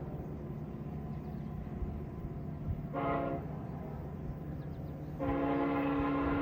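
Locomotive horn sounding a short blast, then a long blast, over the steady low rumble and knocks of a train rolling past.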